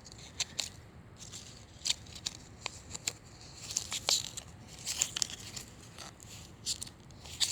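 Folded cardboard hang tag being handled and its pages turned, a series of light paper clicks and rustles.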